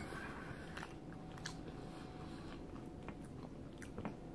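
Quiet chewing of a mouthful of chili and corn chips, with a few short clicks of a metal spoon against the bowl, one sharper click near the end.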